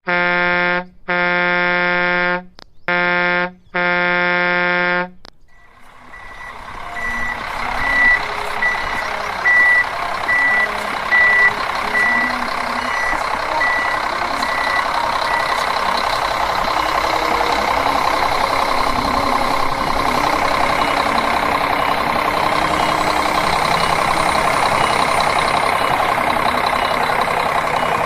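A toy construction vehicle's electronic sound effects: four steady horn honks, then an engine sound starting up and running steadily. From soon after the start until about halfway through, a high reversing-style beep repeats about one and a half times a second.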